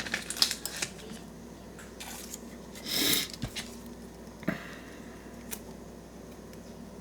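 Trading cards and their pack wrapper being handled: soft taps, slides and rustles, with a short louder rustle about three seconds in and a sharp click shortly after.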